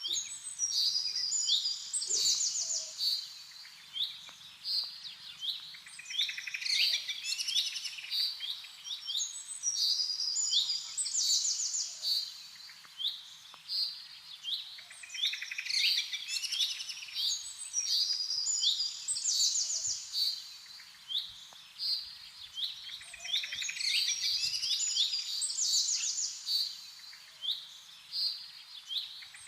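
Birds singing and chirping: bursts of quick chirps and rapid trills that swell and fade in a cycle repeating about every four seconds.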